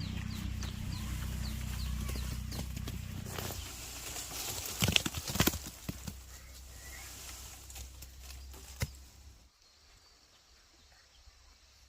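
A low steady rumble with a small bird chirping in a quick series of short falling notes. A cluster of sharp knocks comes about five seconds in and one more near nine seconds, after which it falls to a faint background.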